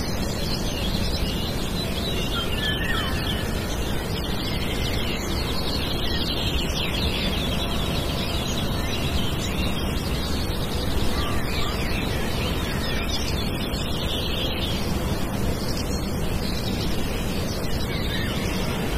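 Small birds chirping repeatedly over a steady rushing background noise.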